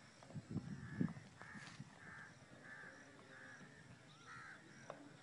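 A bird calling over and over, about two short calls a second. A couple of low knocks near the start, the loudest about a second in.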